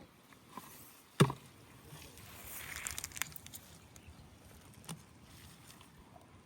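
A single sharp knock about a second in, followed by a couple of seconds of water splashing with scattered small clicks, and a softer knock near the end.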